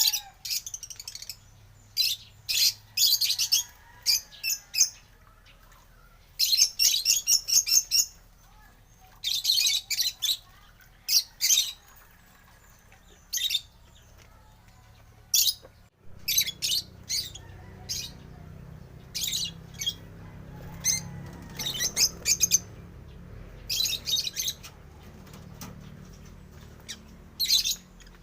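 African lovebirds chirping in short, shrill bursts that come in clusters every second or two.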